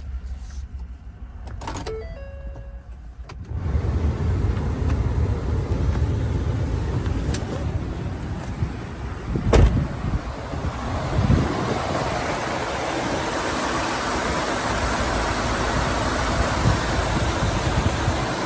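Ford 5.0L V8 pickup engine starting after a few short chime tones, then running with a steady low rumble. A sharp thump comes near the middle, and the sound grows broader and louder in the second half.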